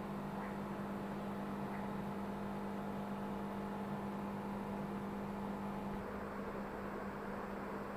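A steady low electrical hum over an even hiss.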